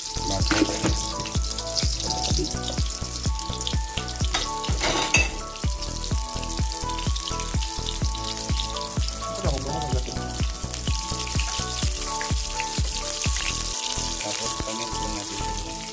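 Garlic and onion sizzling as they sauté in a pan, under background music with a steady beat.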